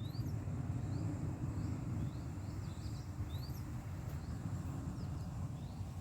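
Small birds chirping, a string of short rising calls, over a low steady rumble.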